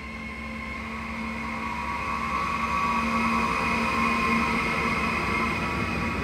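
Siemens ES64F4 electric locomotive hauling a container freight train past, growing louder as it nears and passes about four seconds in, with a steady high whine over the rumble of the wheels.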